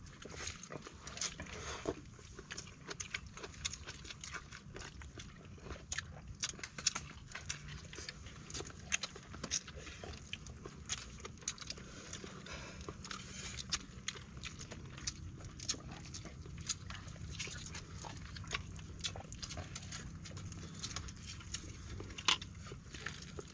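People eating by hand close to the microphone: many short wet clicks of chewing and lip-smacking, over a low steady rumble.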